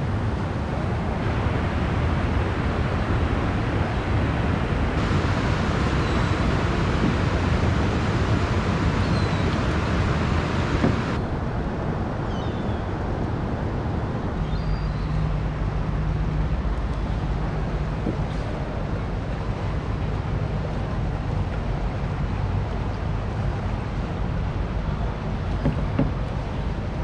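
Steady rushing noise of wind and water on the river. From about halfway through, a low steady motor hum joins it.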